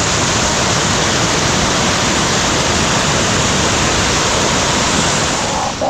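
A steady, loud rush of water from storm water pouring and flowing, cut off suddenly near the end.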